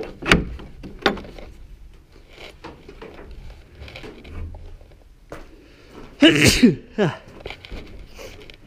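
Two sharp chops of a machete into brush near the start, with light crackling of brush between. About six seconds in comes a short, loud vocal burst from a person, falling in pitch.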